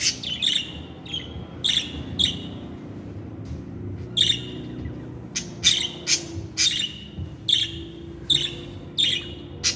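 Budgerigars chirping: short, sharp, high chirps at irregular intervals, roughly two a second, over a faint low hum.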